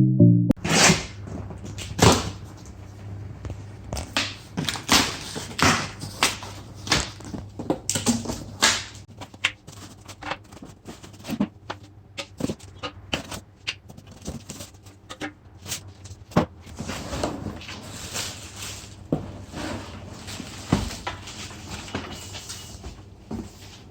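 Vacuum cleaner box being opened and its parts unpacked: irregular knocks, clicks, scrapes and rustles of cardboard and packaging being handled.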